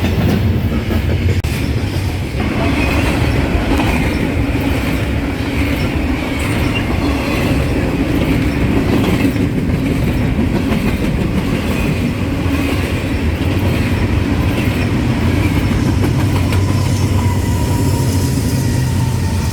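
Freight train cars rolling past on the rails, loud and steady.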